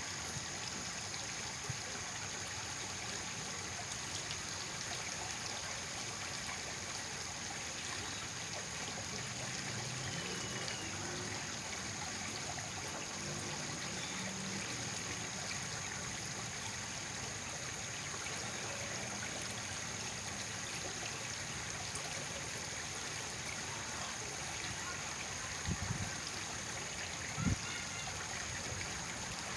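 Water running steadily in an even, continuous trickle, with two brief low thumps near the end.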